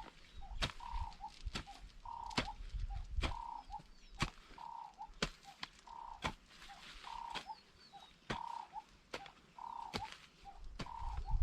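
An animal, a frog or a bird, gives a short call over and over, a little more than once a second. Sharp clicks come now and then across it.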